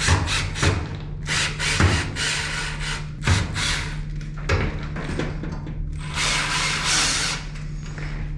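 A power driver running in short spells while metal dryer parts knock and clank into place during reassembly.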